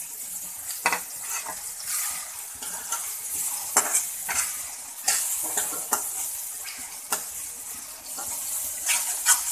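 Masala with green chillies sizzling as it fries in a wok, while a spoon stirs it, scraping and clinking against the pan many times.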